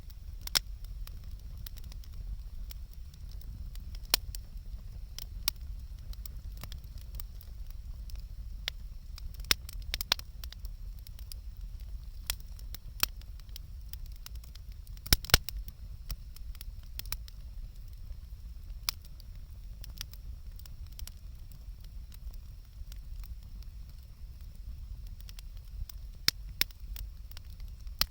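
Wood campfire crackling: irregular sharp pops and snaps over a steady low rumble, with two louder pops close together about halfway through.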